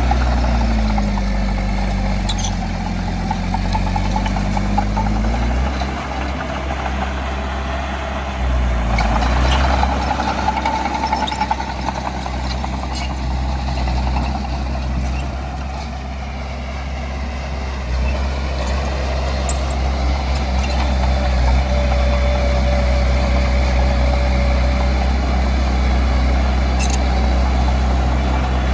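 Heavy diesel earthmoving machinery running steadily under load, its engine pitch dipping and rising once in the first few seconds. A few short, sharp knocks come through at intervals.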